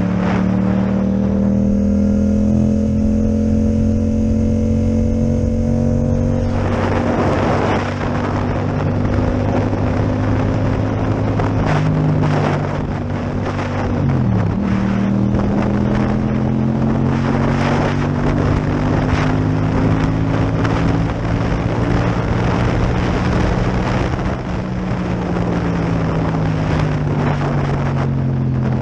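Yamaha MT-07 parallel-twin engine with an Akrapovic exhaust running under way, with wind noise on the microphone that grows louder after about six seconds. The engine note dips sharply about halfway through and falls gradually near the end.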